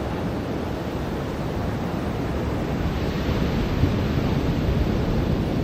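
Ocean surf washing onto a beach, a steady rush of breaking waves with wind on the microphone, swelling a little louder about three seconds in.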